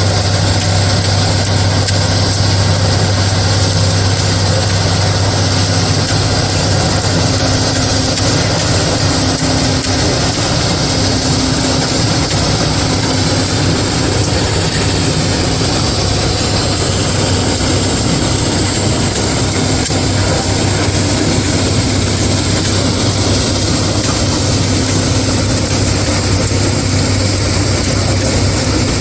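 A large engine running steadily, a constant low drone with no change in pace.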